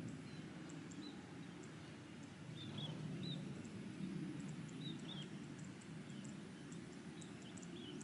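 Small birds chirping: many short, high chirps and thin ticks scattered irregularly over a steady low rumble.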